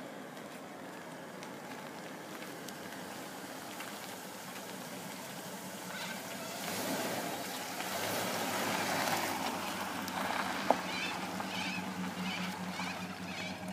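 Classic Pontiac convertible's engine as the car approaches and pulls in close, growing louder, then running at a steady low idle. A single sharp click about ten and a half seconds in.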